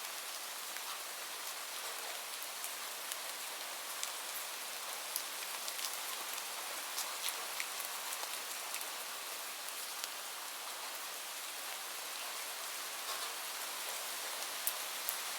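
Steady rain falling, mixed with scattered sharp pops and crackles of a wood fire in a fireplace.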